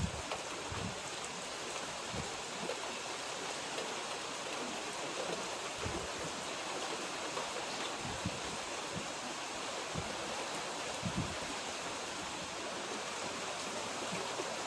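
Steady hiss of heavy rain falling, with wind, and a few short low thumps on the microphone scattered through it.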